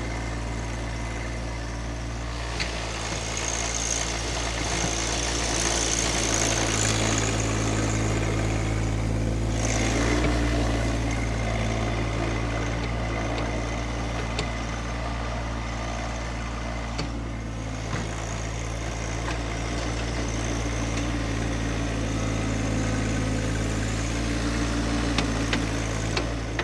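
John Deere 2025R compact tractor's three-cylinder diesel engine running steadily while working a front snow pusher, its note rising a little partway through, with a few faint knocks.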